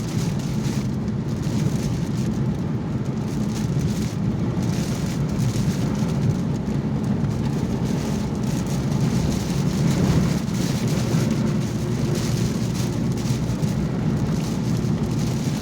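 Heavy rain on a moving car, heard from inside the cabin, a steady hiss and patter over the low hum of engine and tyres on the wet road.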